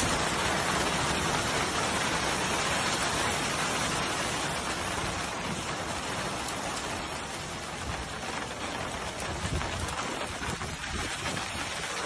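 A hailstorm with heavy rain pelting down on surfaces: a dense, steady patter.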